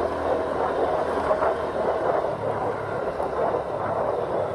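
Wind rushing over the microphone, with a Honda Scoopy scooter's small engine running steadily underneath as it rides along a road.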